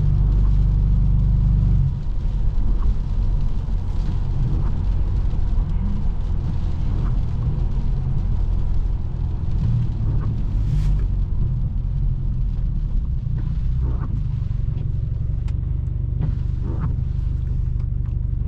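Straight-piped exhaust of a tuned BMW F30 328i's turbocharged four-cylinder, a deep steady drone while cruising. It is louder for the first two seconds, then eases off slightly and holds steady.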